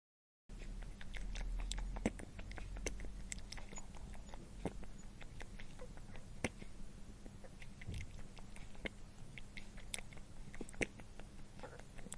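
An animal chewing: irregular crunching clicks over a steady low hum, starting about half a second in.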